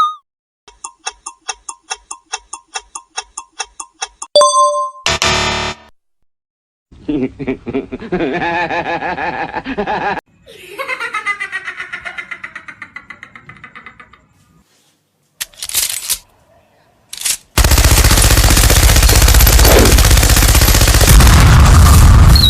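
Cartoon sound effects over music: a run of quick ticks, about four a second, ending in a short chime, then pulsing pitched sounds that slide downward. Near the end comes a long, loud, noisy passage.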